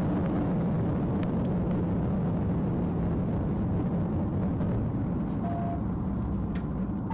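Steady car engine and road noise, a constant drone with a low hum.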